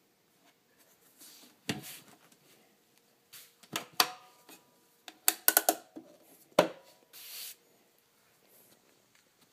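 Hard plastic parts of a center console cooler being handled: a series of sharp clicks and knocks, some with a brief ring, including a quick cluster of clicks about five seconds in, then a short rubbing sound.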